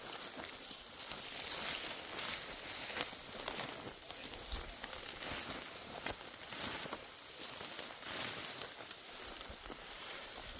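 Dry wheat stalks rustling and crackling in irregular strokes as they are cut and gathered by hand.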